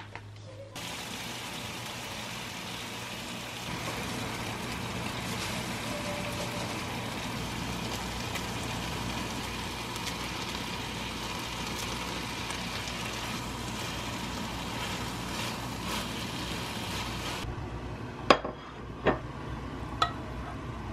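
Spicy chicken dakgalbi sizzling as it is stir-fried in a non-stick pan, a steady frying hiss that cuts off suddenly about seventeen seconds in. Near the end a few sharp knocks of a wooden spoon against the pan as the food is scraped out.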